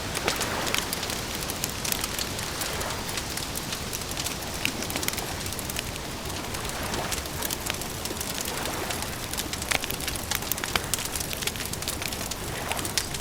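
Wood campfire crackling, with frequent sharp irregular pops and snaps over a steady hiss.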